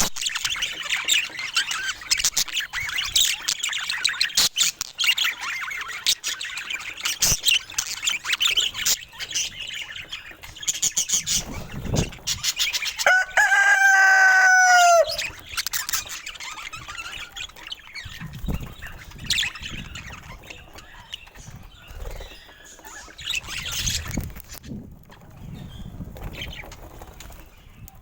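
Pet parrots chirping and chattering busily. About halfway through, one loud call holds for about two seconds, falling slightly in pitch. After that the chirps are sparser, with some scuffling and rustling.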